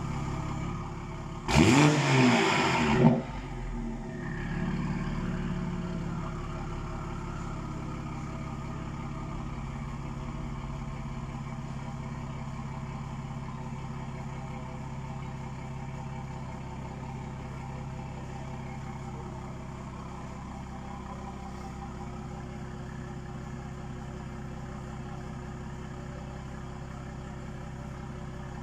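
Toyota A90 Supra engine through its decatted exhaust with modified back box: one short rev about two seconds in, then a steady idle.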